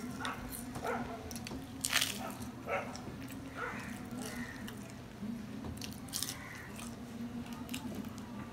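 Close-miked mouth sounds of a man biting and chewing pieces of luchi, puffed deep-fried flatbread, with scattered short wet clicks and crunches over a steady low hum.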